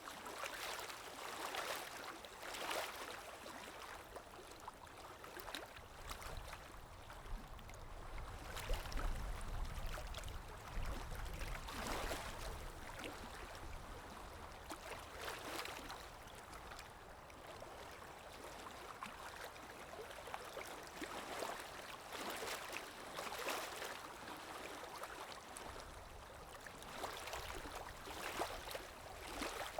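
Sea waves washing on a shore: a continuous rush of water that swells and falls away every few seconds, with a deeper rumble from a bigger wave partway through.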